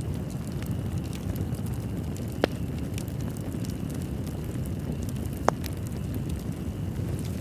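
Wood fire crackling in a fireplace: a steady low rumble of flames under many small crackles, with two louder pops, about two and a half and five and a half seconds in.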